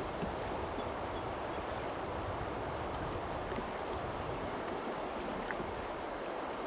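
Steady rushing noise of wind and water around a small fishing boat on a lake.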